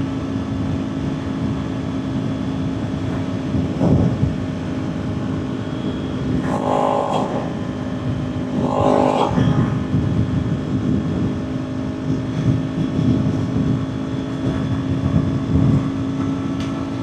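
Kawasaki Ninja 400's parallel-twin engine running at a steady highway cruise with heavy wind rush, one constant engine note throughout. Two brief higher-pitched sounds cut in about 7 and 9 seconds in.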